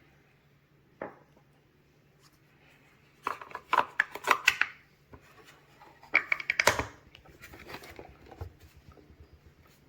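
Two bursts of rapid clicking and clatter, as of hard objects being handled, about three and six seconds in, with softer clicks after them and a single click about a second in, over a faint steady hum.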